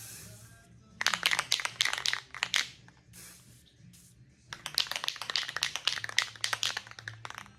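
Aerosol spray can of automotive etching primer being shaken, its mixing ball rattling in quick runs of clicks, broken by short hissing bursts of spray, near the start and about three seconds in.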